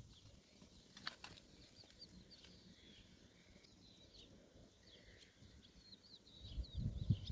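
Faint, high-pitched chirping calls repeating irregularly, several a second, with one louder sharp click about a second in.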